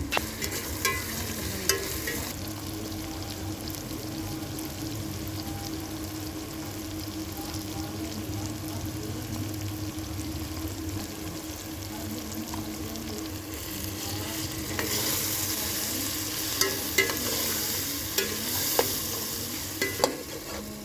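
Bhindi (okra) frying and sizzling in a pan, stirred with a utensil that clicks and scrapes against the pan now and then. The sizzle grows louder about fifteen seconds in, with a run of sharp utensil knocks near the end. A steady low hum sits underneath.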